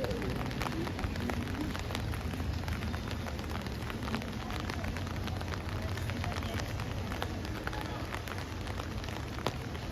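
Steady rain, an even hiss sprinkled with many small drop ticks, with faint voices in the first couple of seconds.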